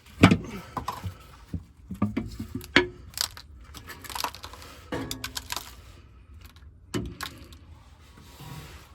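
Irregular metallic clinks and knocks of tools and parts being handled, the loudest just after the start, with further knocks at uneven intervals.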